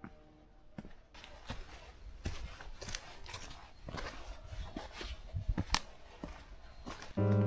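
Footsteps on a wet rocky trail: irregular light clicks and scuffs over a faint steady hiss. Music comes in near the end.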